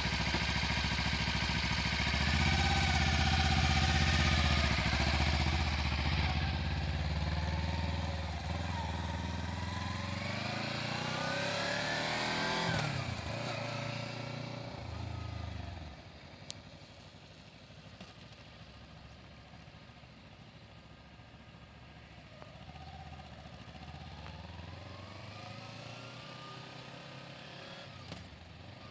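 Kawasaki Ninja 300's parallel-twin engine running loud and close, then revving up through rising pitch and pulling away, growing much quieter about halfway through. Later it comes round again, fainter, with another rise in revs.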